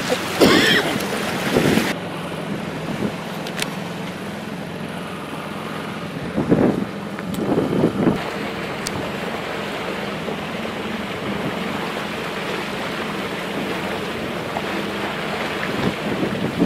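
Strong wind buffeting the microphone over the rush of water along a small sailboat's hull under sail, with a heavy gust at the start and two louder surges about six and eight seconds in.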